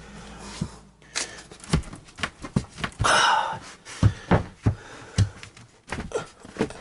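Scattered knocks and taps of particle board subfloor panels being shifted and stepped on, with a short rushing noise about three seconds in.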